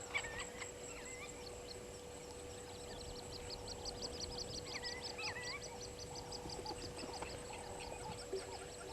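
Wild birds calling at a bush waterhole: a fast run of short, high, repeated notes, and now and then a brief wavering whistle.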